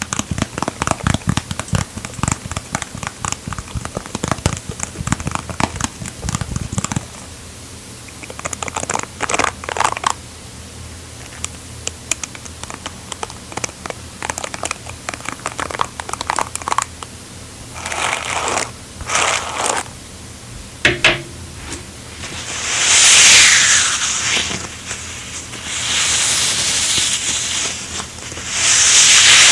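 Close-miked ASMR trigger sounds: quick crackling, crinkling taps, then slower scratchy strokes, then several long hissing swooshes near the end.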